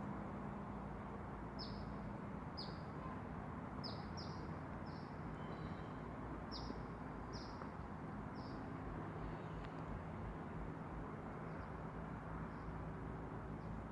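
A bird calling in short, high, downward-slurred chirps, about one a second, growing fainter after about nine seconds, over a steady low background rumble.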